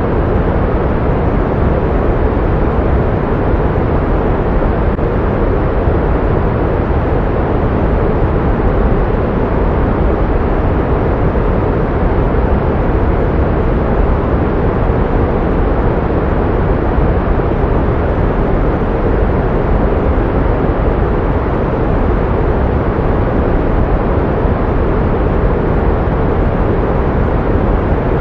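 Steady pink noise: an even, unchanging hiss with no pitch or rhythm, fuller in the low end than in the highs.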